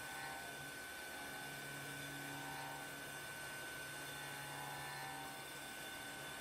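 Faint, steady machine hum with a constant high-pitched whine and a lower tone that fades in and out every second or two.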